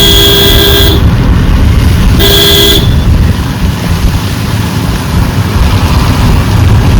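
Car horn sounding twice, a one-second blast then a shorter one, over the steady low rumble of the car driving.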